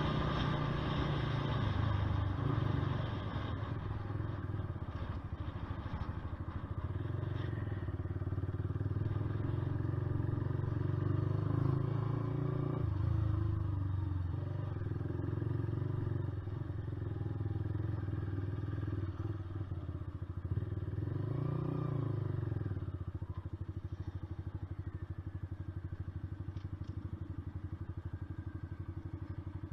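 Honda CBR125R's single-cylinder four-stroke engine running on the move, its note rising and falling several times with the throttle, then settling to a steadier, quieter note for the last several seconds.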